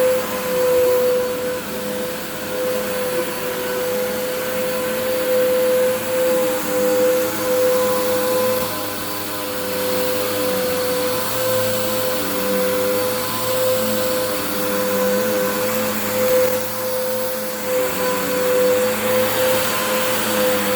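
Vacuum cleaner running steadily: a constant motor whine over the rush of air, with fainter wavering tones underneath.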